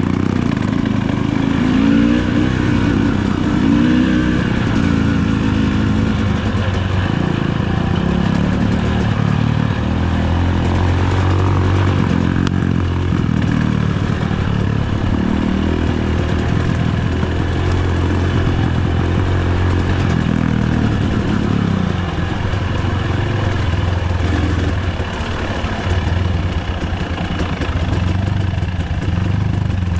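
Enduro dirt bike engine running steadily loud, its revs rising and falling again and again.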